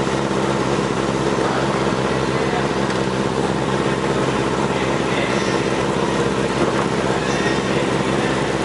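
Racing superbike engine heard from on board, running steadily at low revs as the bike rolls slowly to a stop.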